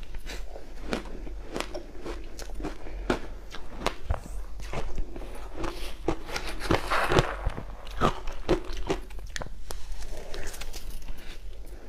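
Close-up crunching of crushed ice being bitten and chewed: irregular sharp cracks, several a second, with a dense cluster of crunches midway.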